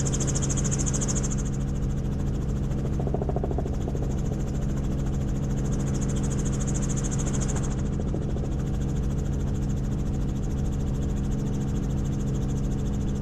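Helicopter in flight: a steady drone from the engine and rotor, with a high hiss that swells twice, near the start and about six seconds in.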